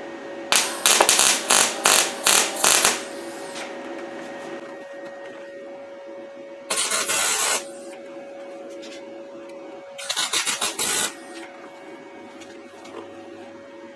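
Welding arc from a YesWelder MP200 tacking steel railroad spikes together: a run of five or six quick tack welds in the first three seconds, then two single welds of about a second each, over the machine's steady hum.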